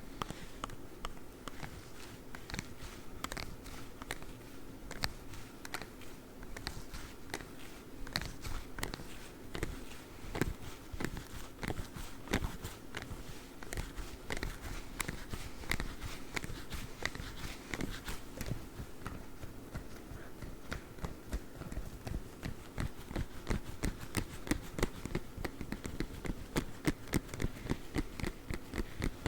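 Claw gloves tapping and scratching in quick, close clicks and scrapes, growing busier and louder over the last few seconds.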